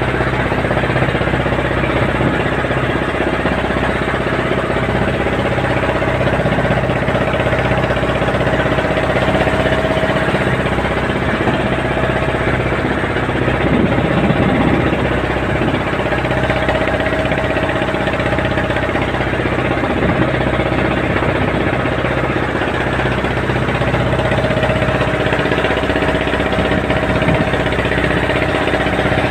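Boat engine running steadily at a constant speed, with an even, unchanging pitch, heard from aboard the boat.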